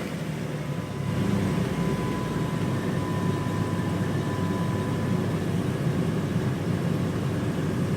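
2004 Jeep Grand Cherokee Laredo engine idling steadily just after start-up, growing a little louder about a second in.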